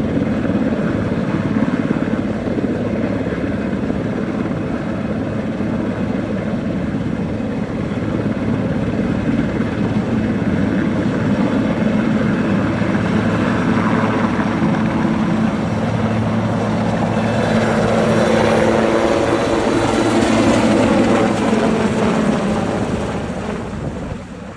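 Sikorsky S-61A helicopter in flight, its rotor and turbine engines running steadily. The sound grows a little louder in the second half, then falls away near the end.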